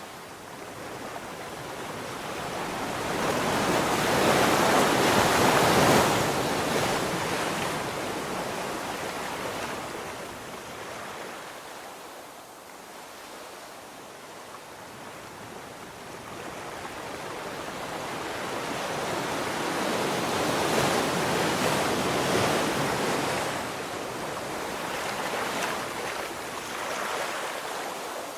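Ocean waves breaking on a beach: two swells of surf that build, crash and wash back, the first about five seconds in and the second around two-thirds of the way through.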